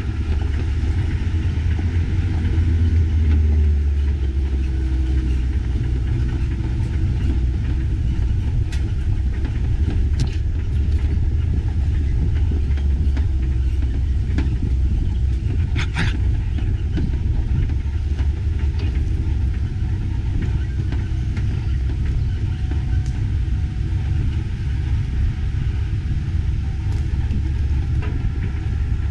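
Vehicle driving slowly along a rough dirt bush track, a steady low engine and road rumble with a few sharp knocks and clunks, about nine, ten and sixteen seconds in.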